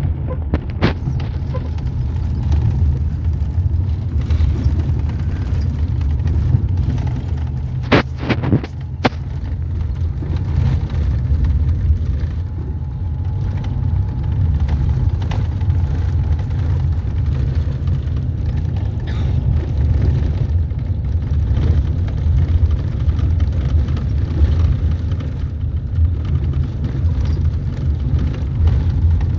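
A vehicle travelling along a road: a steady low rumble of road and engine noise, with a couple of sharp knocks about eight seconds in.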